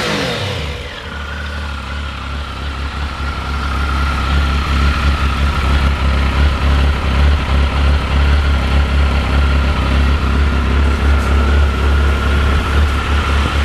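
2003 Triumph Sprint 955i's three-cylinder engine dropping back from a brief rev and then idling steadily, with a thin steady whine above the idle.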